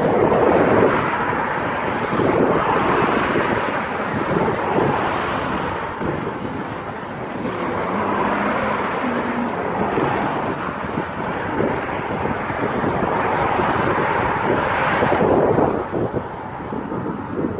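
Wind rushing over the microphone of a moving bicycle rider, with road traffic noise, swelling and fading every few seconds.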